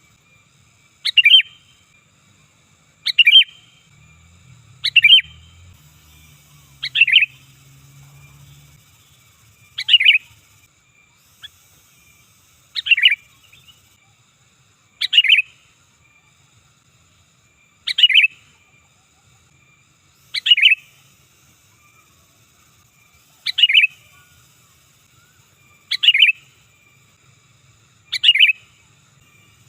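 Sooty-headed bulbul (kutilang) calling: one short, loud, chirping phrase repeated about every two seconds, some thirteen times.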